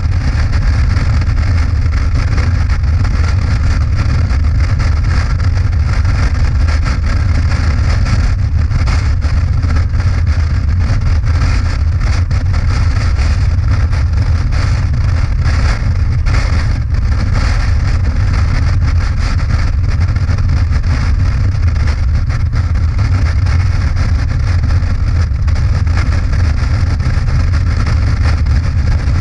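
Motorcycle engine running steadily at cruising speed, with a low rumble and wind rush.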